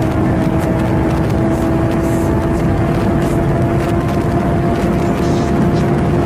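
1000cc naked motorcycle engine running steadily at high revs, its pitch creeping slightly upward, over a dense rumble.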